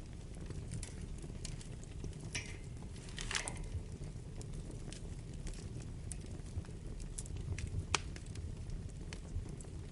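Wood fire burning in a fireplace: a steady low rumble of flames with scattered crackles and pops. The sharpest pop comes about eight seconds in.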